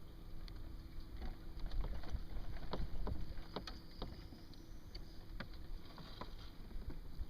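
Outdoor sound of a kayak on the water: a steady low rumble with scattered light clicks and knocks.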